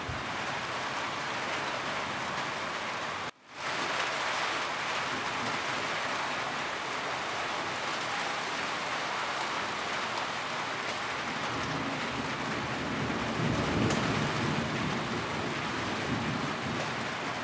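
Steady heavy rain on a roof, a dense even patter. The sound cuts out completely for a moment about three seconds in, and a low rumble of distant thunder swells past the middle and fades near the end.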